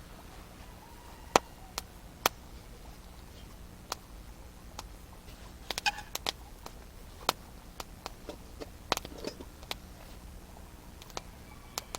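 Wood fire crackling, with irregular sharp pops and snaps, a few louder ones and a brief cluster around the middle.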